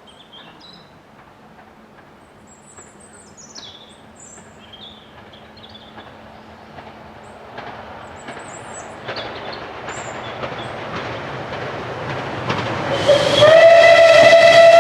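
Rebuilt Bulleid Merchant Navy class steam locomotive 35018 British India Line approaching, its running noise growing steadily louder. About thirteen seconds in it sounds a long whistle blast that slides up slightly in pitch as it opens, then holds steady.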